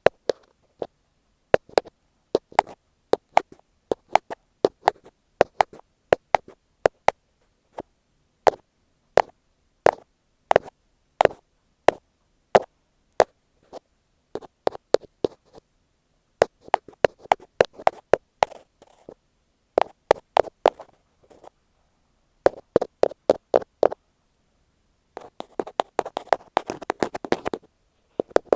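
Ear pick tapping directly on an earphone microphone: sharp, close clicks in quick irregular runs separated by short gaps. Near the end, after a brief pause, it turns into a denser scratching rub mixed with clicks.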